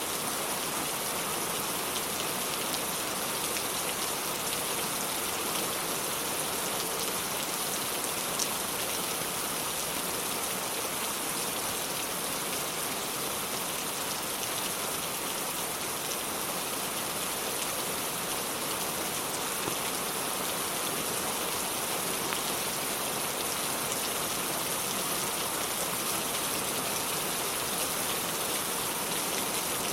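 Steady rain falling, an even hiss of drops with no change through the stretch, and a single faint click about eight seconds in.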